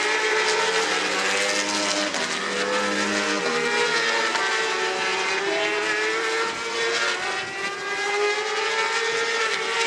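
Several racing motorcycle engines running hard, their overlapping pitches slowly rising and falling as they change speed.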